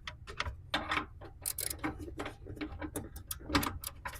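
Irregular metallic clicks and clinks of hand tools, sockets and wrench being handled.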